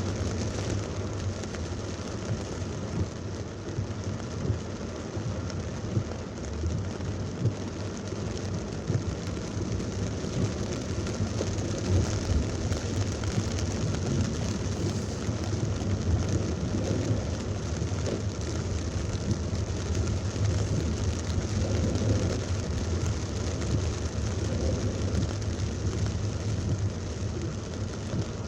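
Heavy thunderstorm rain pouring steadily, with a low rumble underneath.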